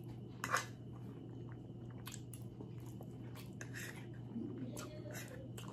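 Close-up chewing of a spoonful of soft fried rice and gravy-covered egg foo young, with scattered wet mouth clicks and lip smacks.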